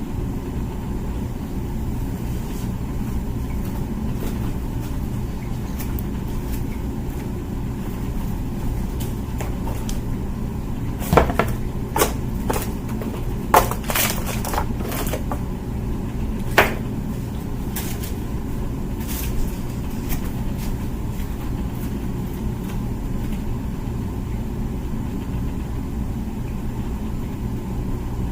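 Comfee dishwasher running mid-cycle, a steady low hum. A handful of sharp clicks come in quick succession around the middle.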